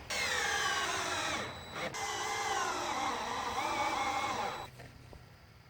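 Power drill driving screws into the wooden hive body: the motor whines in two runs, a short one and then a longer one with a brief pause between, its pitch wavering and sagging as the screw bites. It stops about three-quarters of the way through.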